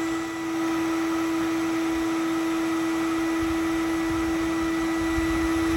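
A small motor running with a steady hum at one constant pitch.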